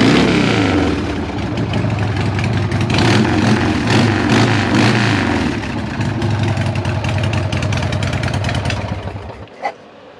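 Harley-Davidson Sportster's 45-degree V-twin running loud and being revved a couple of times, then switched off about nine and a half seconds in.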